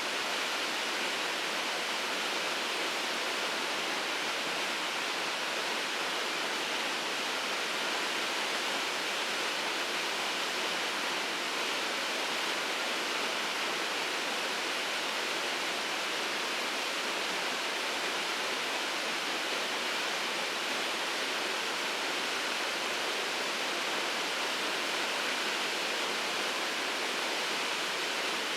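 Shirogane Falls waterfall pouring in a steady, even rush of water, a hiss heavy in the upper range with little deep rumble.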